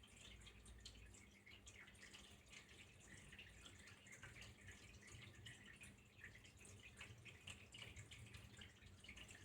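Faint water flowing and dripping: a steady run of small, irregular drips and splashes.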